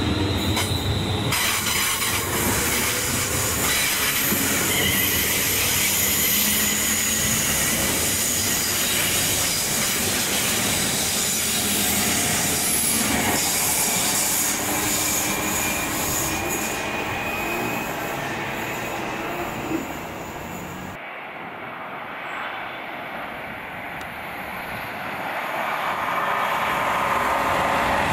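Train running past on the main line: a loud, steady rush of wheels on rail with thin high-pitched tones over it. The noise drops away sharply about twenty seconds in, then builds again near the end as more train noise approaches.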